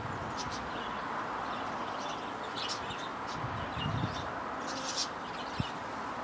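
Steady hum of honeybees flying in and out of a busy hive, with small birds chirping briefly several times above it.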